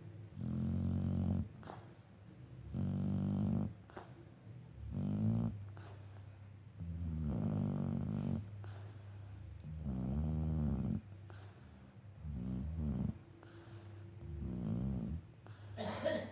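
Shar-Pei dog snoring with a pitched snore on each breath, about one every two seconds.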